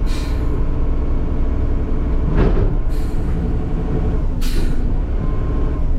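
Garbage truck's diesel engine running steadily, with short hisses of air from its brakes about three times.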